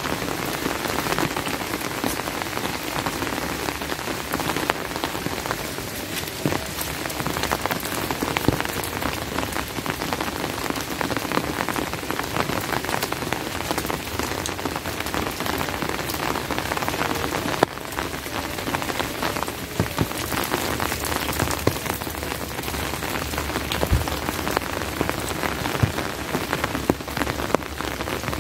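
Steady rain falling, a dense even hiss of rain with many sharp individual drop hits throughout.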